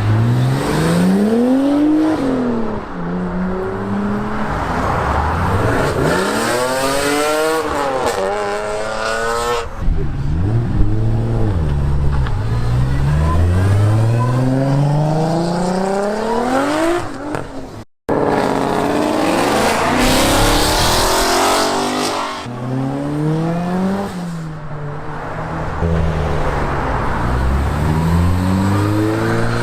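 Modified car engines accelerating hard away one after another, each revving up in rising sweeps through the gears and then falling back. The sound drops out briefly about two-thirds of the way through.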